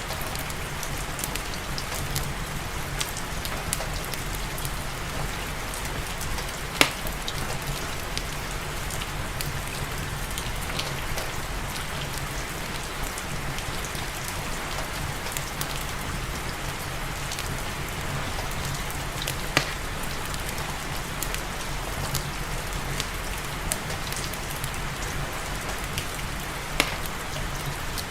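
Steady rain falling, with a wood fire crackling over it in a few sharp, isolated pops, the loudest about a quarter of the way in.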